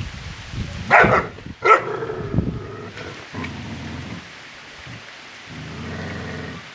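A dog barks twice in quick succession about a second in, followed by quieter low sounds.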